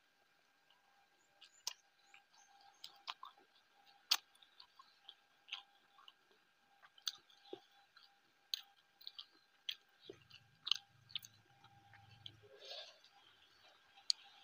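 Faint close-up chewing while eating by hand, with irregular sharp mouth clicks and smacks, about one or two a second.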